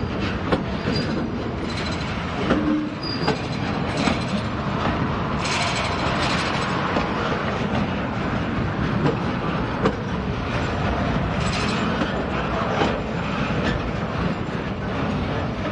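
Heavy freight flatcars loaded with steel rolling slowly past, their wheels clacking and knocking over the rail joints in a steady rumble. Brief high wheel squeals come a few times in the first few seconds.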